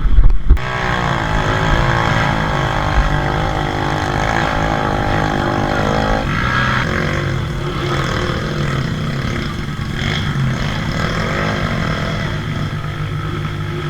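Trail dirt-bike engines running and revving, the engine note shifting about six seconds in and rising and falling near the end. A loud rough burst comes right at the start.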